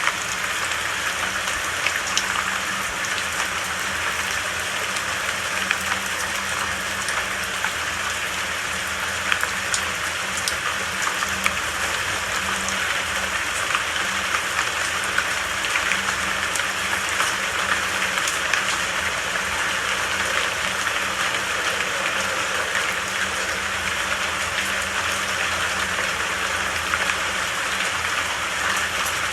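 Steady rain falling, an even hiss with single drops ticking through it.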